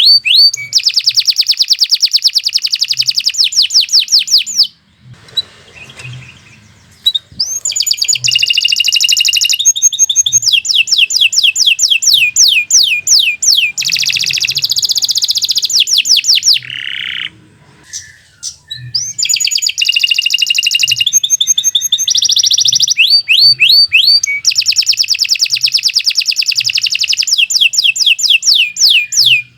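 Domestic canary singing loud, long phrases of rolling trills and rapidly repeated high notes, pausing twice for about two seconds.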